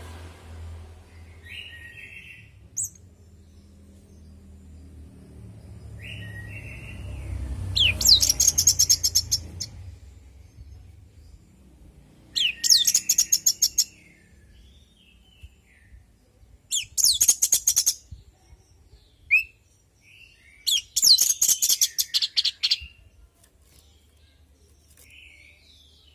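Orange-headed thrush singing: four loud bursts of rapid, high repeated notes, each one to two seconds long, with a few softer short calls between them.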